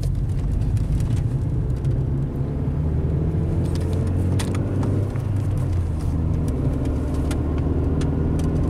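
1996 Mercury Mystique's engine pulling the car under acceleration, heard from inside the cabin along with road noise. The engine note climbs, dips briefly about halfway through, then climbs again, as the freshly replaced clutch takes up the drive and is broken in.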